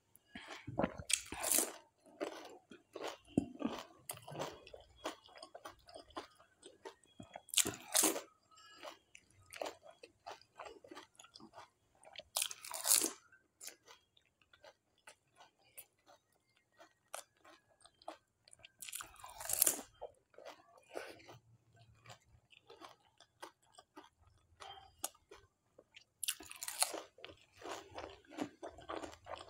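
Close-up eating of panipuri: whole water-filled puri shells crunch in the mouth five times, about every five to seven seconds, with wet chewing and mouth smacks in between.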